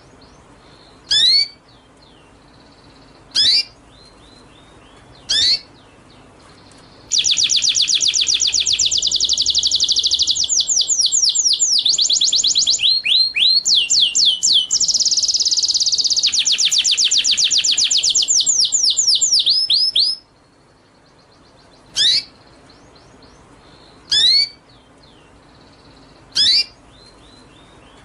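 Songbird singing: single sharp, high down-slurred whistles about every two seconds, then a loud, fast trill of rapidly repeated notes lasting about thirteen seconds, then back to single whistles.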